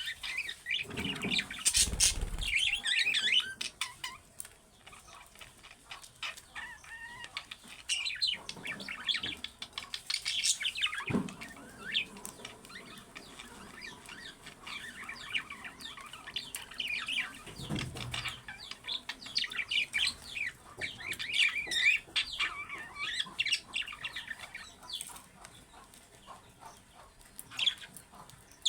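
Budgerigars chirping and warbling in quick bursts, with a few wing flutters.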